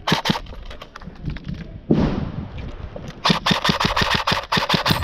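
Airsoft rifles firing on full auto: a short burst at the start, a few single shots, then a long rapid burst in the second half. A louder noisy blast comes about two seconds in.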